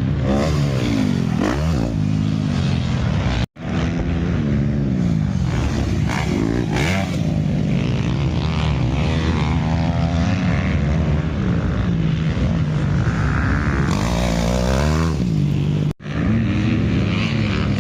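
Motocross bikes' engines revving hard, pitch rising and falling over and over as riders accelerate and shift around the track, several engines overlapping. The sound cuts out briefly twice, once about three seconds in and again near the end.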